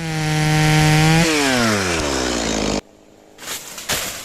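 Stihl chainsaw engine running at high revs; about a second in its pitch begins to sag steadily as it slows, and the sound cuts off abruptly near three seconds in. Two short knocks follow near the end.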